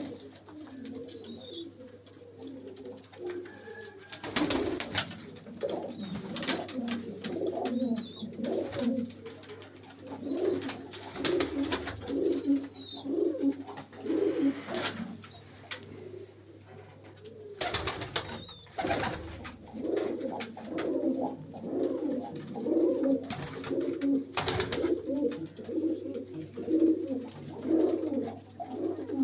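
Domestic pigeons cooing, low repeated calls going on continuously, with a few sharp noisy bursts in between, louder around a third and two-thirds of the way through.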